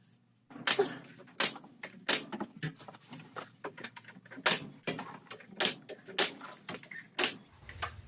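A run of sharp wooden taps and knocks, roughly one every half second to second, as the door stop molding is fastened along the door jamb.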